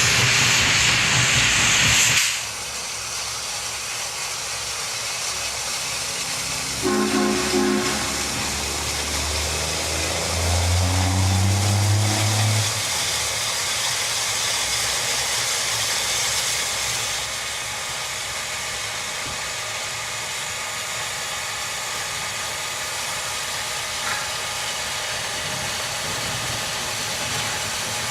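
A loud hiss that cuts off about two seconds in, then the steady running noise of a narrow-gauge train. Around the middle, the locomotive sounds its chime signal twice: a short blast, then a longer one lasting about four seconds.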